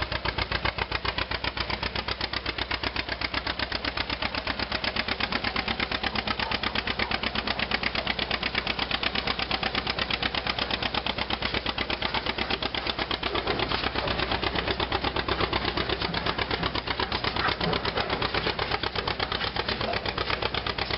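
Antique tractor engine running steadily, its exhaust giving a fast, even beat.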